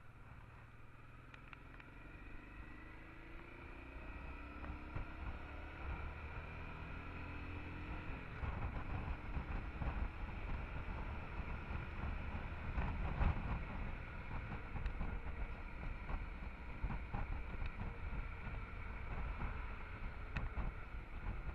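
Honda Transalp XL650's V-twin engine accelerating, its pitch rising over the first several seconds, then wind noise and road rumble growing louder as speed builds and holding steady.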